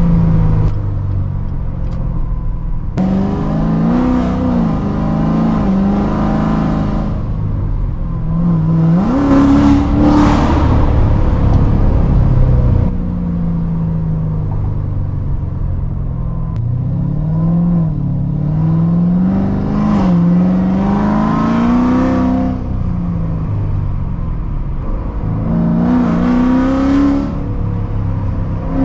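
Straight-piped 2016 Corvette Z06's supercharged LT4 V8, with long-tube headers and an X-pipe, accelerating on the road. The engine note climbs in pitch and drops back several times, with the longest climb about halfway through.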